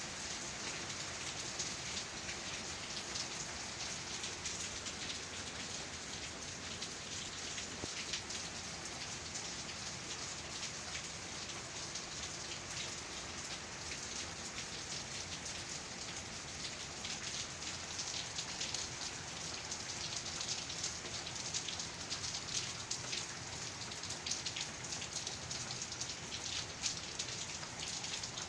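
Heavy rain falling steadily: a dense, even hiss of drops hitting the ground, roofs and leaves, with countless small drop ticks.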